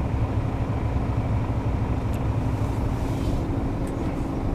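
Steady low engine rumble with a constant hum, and two faint clicks about two and four seconds in.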